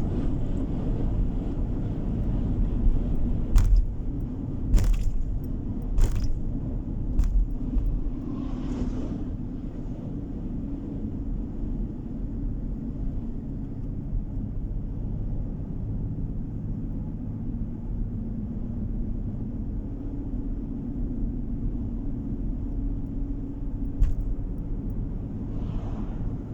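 Steady low road and engine rumble of a moving car, heard from inside the cabin. Four sharp knocks or clicks come about a second apart in the first quarter, and another comes near the end.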